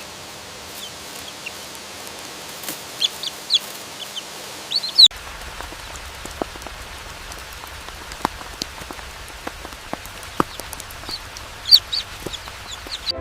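Forest ambience: short, high bird chirps and clucks over a steady hiss. About five seconds in the background changes abruptly and a low hum comes in, followed by scattered sharp ticks and more chirps near the end.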